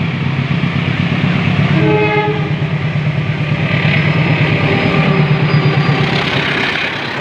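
Railway train running close by: a loud, steady low rumble with rhythmic rattling from the wheels and cars. A short horn note sounds about two seconds in.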